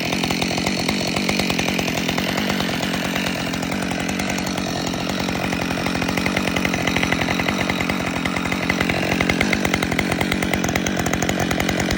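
Husqvarna 572 XP two-stroke chainsaw running at steady high speed under load, cutting through wood.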